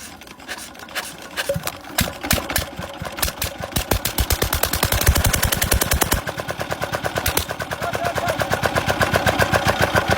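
Diesel engine starting: a few irregular firing knocks, then it catches and runs with fast, even beats. About six seconds in the beat changes and it settles into a steady run.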